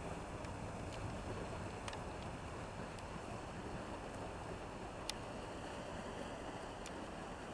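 Steady low rumbling noise with a few faint, sharp ticks scattered through it.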